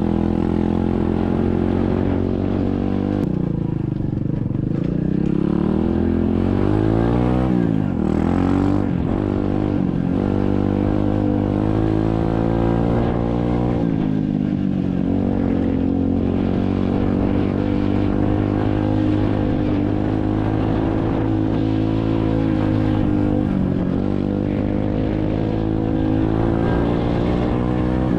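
SSR 125cc dirt bike's single-cylinder four-stroke engine running while riding. The revs dip about three seconds in, climb steeply around seven to eight seconds, change again near fourteen seconds, then hold fairly steady.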